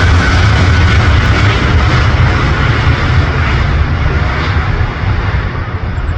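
Jet airliner's engines at takeoff power: a loud, deep rumble with a hiss on top, slowly fading as the high end drops away.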